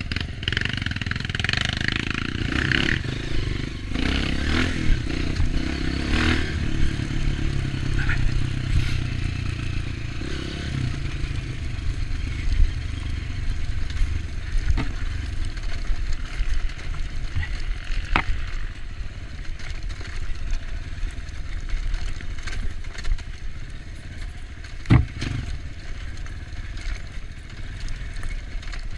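Dirt bike engine running on a trail ride, steady through the stretch, with a few sharp knocks about two-thirds of the way in and again near the end.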